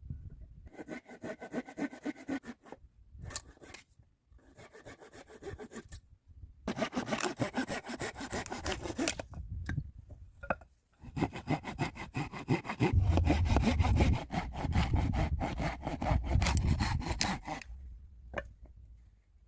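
Saw cutting through wood in several runs of quick back-and-forth strokes with short pauses between them. The longest and loudest run comes in the second half.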